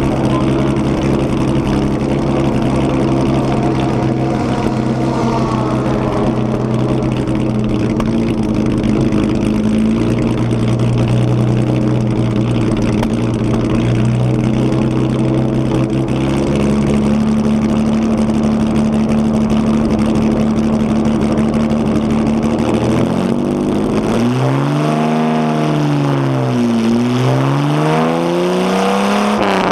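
HW Alta-Jaguar's Jaguar straight-six engine ticking over steadily, heard from the open cockpit, its idle stepping up and back down a couple of times. In the last few seconds the revs are blipped up and down several times in quick succession as the car moves off.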